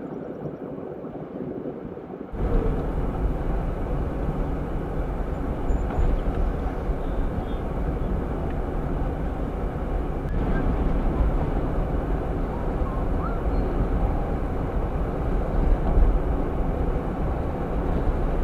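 A vehicle being driven, with a steady road and engine rumble that gets suddenly louder about two seconds in.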